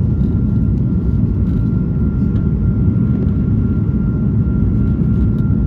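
Steady cabin noise inside an Airbus A220-300: an even, low rumble of engines and airflow, with a thin steady high tone above it.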